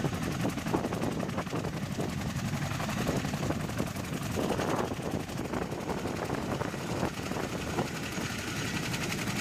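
CH-47 Chinook twin-rotor helicopter running on the ground with both rotors turning: a steady, rapid rotor chop over engine noise and rotor-wash wind.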